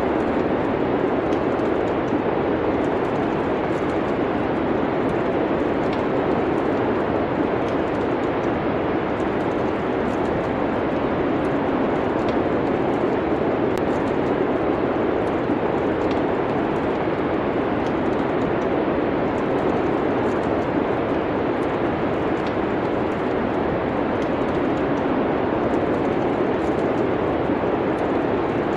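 Steady, even rushing noise of a winter wind-and-fire ambience, with faint, sparse crackles of burning wood scattered through it.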